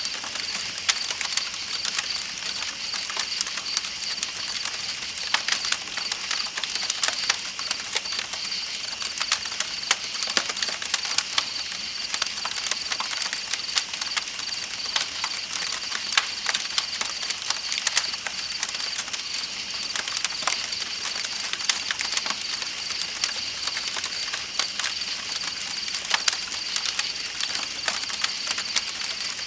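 Night insects chirping in a steady high chorus over the even hiss of flowing river water, with a campfire crackling and popping irregularly.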